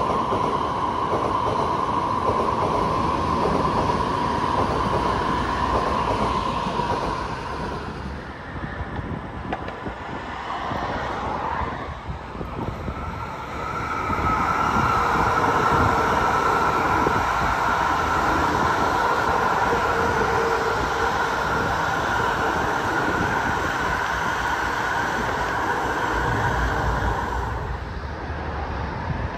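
Chinese high-speed train running with a steady rushing rail noise and a high whine. The sound eases off about a third of the way through, then comes back louder with a slightly higher whine.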